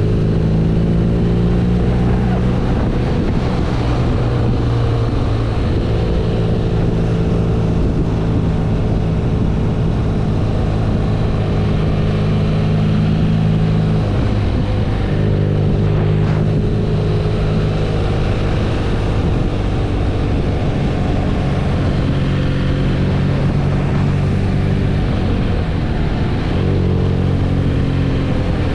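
BMW R nineT's 1170 cc boxer twin engine running as the motorcycle rides along, its pitch stepping up and down several times as the throttle and gears change.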